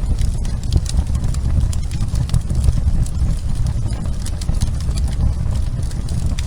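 Fireplace fire burning: a steady low rumble of flames with scattered crackles and pops, a sharper pop right at the end.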